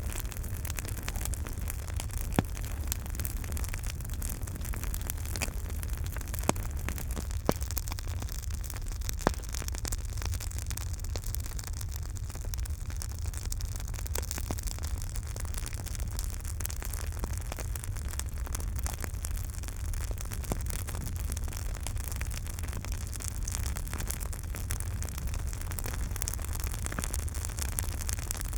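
Campfire burning with a steady low rumble and continual crackling, with about four sharper pops standing out in the first ten seconds.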